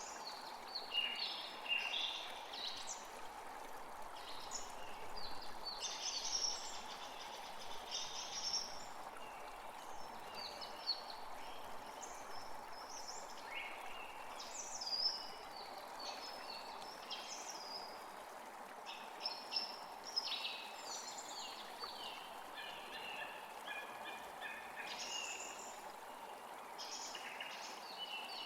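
Several birds chirping and trilling, many short phrases one after another, over a steady rushing background noise.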